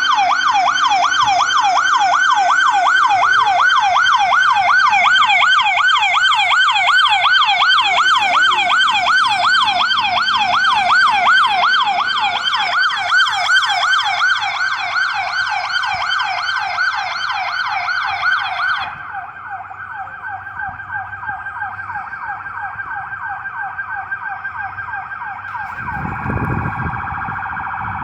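Emergency vehicle siren in a fast yelp, about three rising-and-falling sweeps a second. A little past two-thirds of the way through the yelp stops and a quieter, steadier siren tone carries on, with a low rumble joining near the end.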